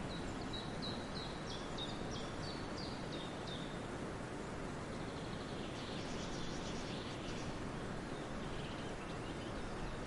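A bird gives a run of short, high chirps, about three a second, for the first three and a half seconds, and chirps again more densely about six seconds in, over steady background noise.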